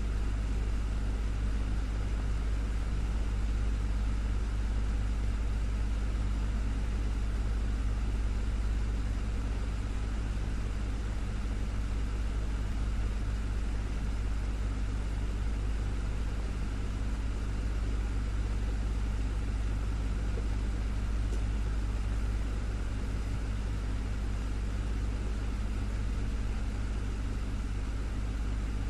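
Desktop fan running steadily, a low hum with an even whoosh of moving air over it.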